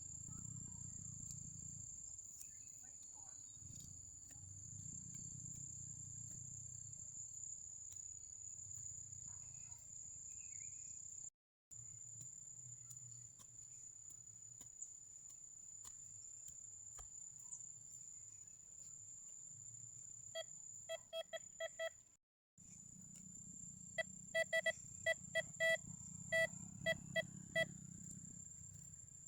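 Metal detector giving a run of short, sharp beeps over a target, first about five quick beeps, then after a break nine or ten louder ones. A steady high-pitched insect drone and low rumble sit underneath.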